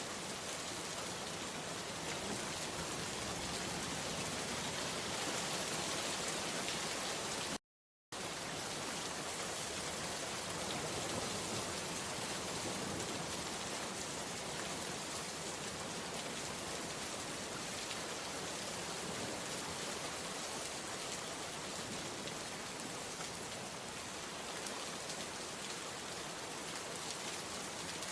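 Steady rain falling, an even hiss of drops. The sound cuts out to silence for about half a second around eight seconds in, then resumes unchanged.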